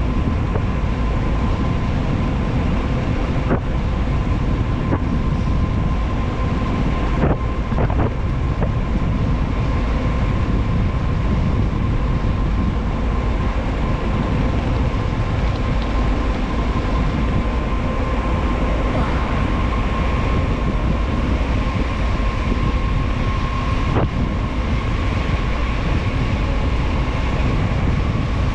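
Heavy wind rush over the microphone of a mountain bike coasting down a paved mountain road at high speed, with tyre noise and a steady high whine. A few short sharp clicks come about seven seconds in and again later.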